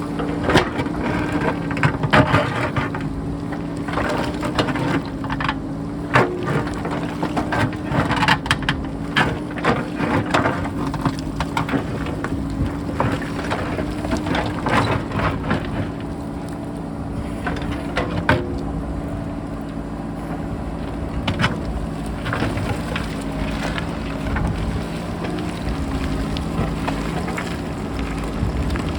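JCB backhoe loader's diesel engine running steadily while rocks clatter and knock, with the sharp knocks coming thick in the first third and then spacing out. Wind buffets throughout.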